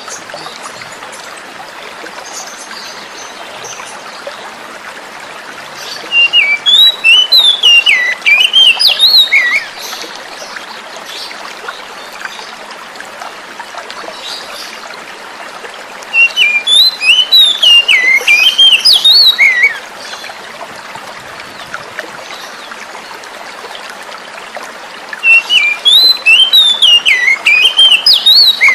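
An oriental magpie-robin (kacer) sings the same loud phrase of quick, rising and falling whistled notes three times, each about three and a half seconds long and about ten seconds apart. Flowing water trickles steadily underneath.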